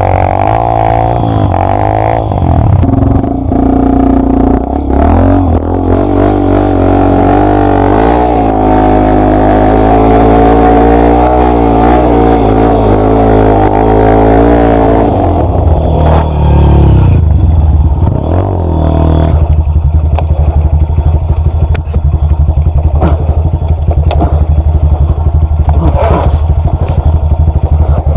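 Yamaha Lander 250 motorcycle's single-cylinder four-stroke engine revving up and down under load, its pitch rising and falling. About two-thirds of the way through it settles into a steady low run with a fast, even pulse.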